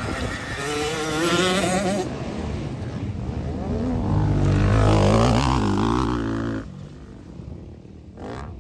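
Motocross motorcycle engines revving hard, their pitch rising and falling as the bikes race by. The loudest pass comes about four to six seconds in, then the sound drops off sharply.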